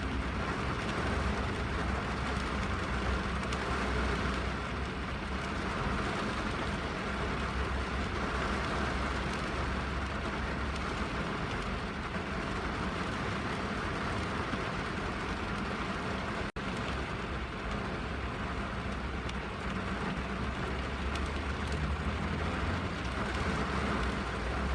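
Rain falling on a car's roof and windows, heard from inside the cabin as a steady, even patter over a low rumble, with a split-second dropout about two-thirds of the way through.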